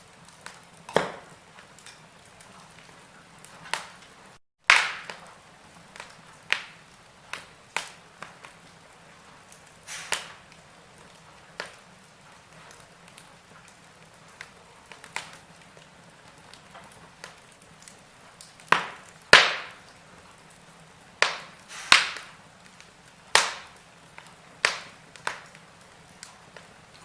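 Wood fire crackling: irregular sharp pops and snaps over a faint steady hiss, coming more thickly in the second half. The sound cuts out for an instant about four and a half seconds in.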